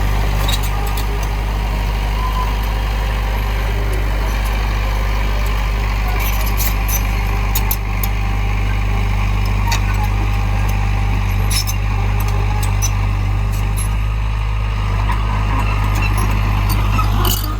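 Heavy diesel engine of earthmoving machinery running steadily at a constant pitch, with scattered sharp clicks and rattles over it.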